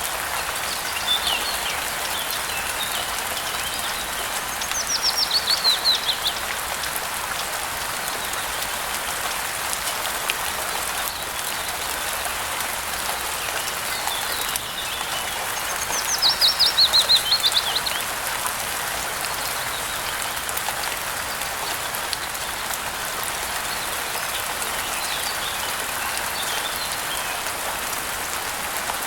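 Steady rain hiss, with a songbird twice singing a quick series of notes that fall in pitch, about ten seconds apart, and fainter chirps in between.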